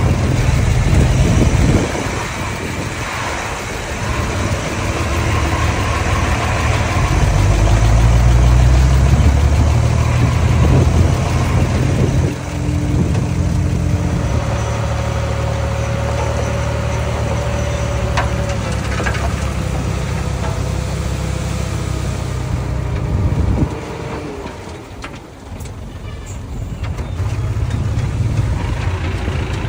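Small bulldozer's diesel engine working, its note rising and falling with load, with a thin steady tone over it around the middle; it eases off and goes quieter for a few seconds about three quarters through, then picks up again.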